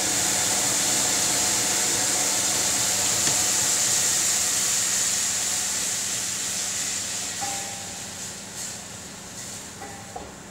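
Water hissing and sizzling in a hot frying pan as it deglazes the browned chicken juices. The hiss is steady at first, then dies down gradually over the last few seconds.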